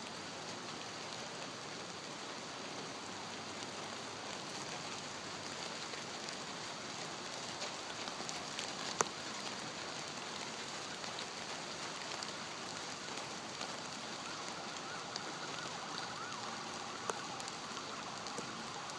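Steady rain falling, with a single sharp click about halfway through and a faint wavering tone entering in the last few seconds.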